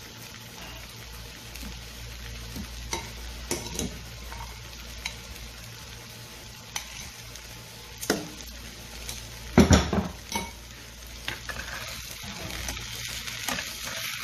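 Chicken, sliced potatoes and onions sizzling steadily in a hot non-stick pan, while metal tongs turn the food, clicking and scraping against the pan now and then. A louder knock comes near the middle.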